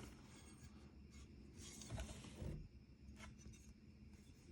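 Near silence with faint handling noise: light rubbing and a few small clicks, as a hand-held tool is moved about.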